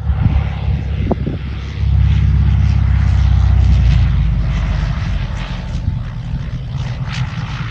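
Cessna 172's piston engine and propeller droning steadily, growing louder for a few seconds in the middle.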